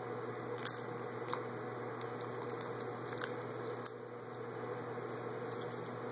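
Faint chewing and small clicks of seaweed being eaten, over a steady background hiss and hum.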